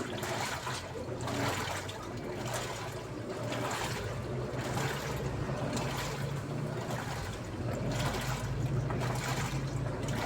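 Daewoo washing machine running with water in the drum: water sloshing in surges about once a second over a steady low hum.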